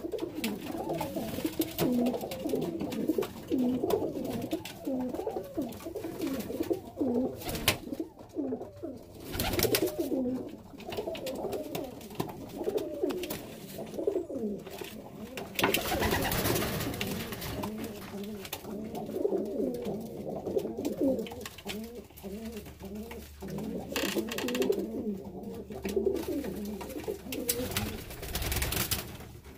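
Several domestic pigeons cooing over one another without pause, with a few short rushes of noise, such as wing flapping, breaking through.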